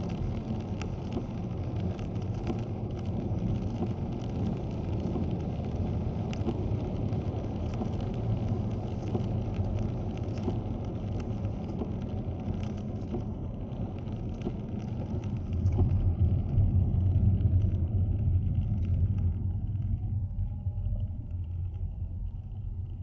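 Car running on a wet road, heard from inside the cabin through a dashcam's microphone: a steady low rumble with faint ticks of rain. The rumble swells about 16 seconds in and eases, and the higher hiss thins out near the end.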